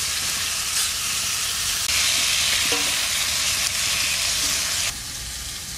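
Green tomato slices sizzling in hot oil in an iron kadai as they are stirred and lifted out with a spatula. The hiss grows louder about two seconds in and falls off near the end.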